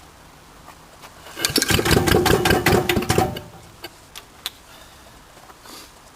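Lister Petter diesel engine turning over in a cold-start attempt in freezing weather: about two seconds of rapid, regular beats, then it stops without running on. A few sharp clicks follow.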